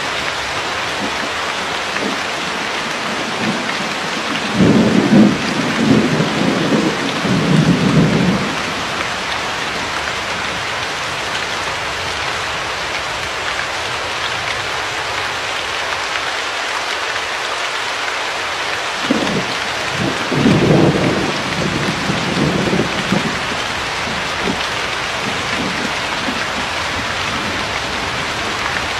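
Steady rain falling, with two rolls of thunder rumbling over it, the first about five seconds in and the second about twenty seconds in, each lasting a few seconds.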